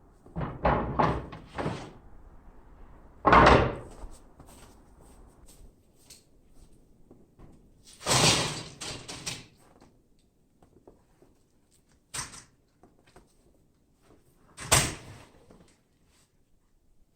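A string of separate knocks and slams, the loudest about three and a half seconds in, with more bangs around eight, twelve and fifteen seconds in and quiet between them.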